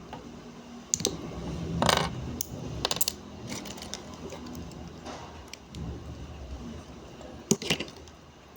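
Small plastic building bricks clicking and rattling against each other as loose pieces are handled and fitted together, in scattered sharp clicks with a longer rattle about two seconds in and another cluster near the end.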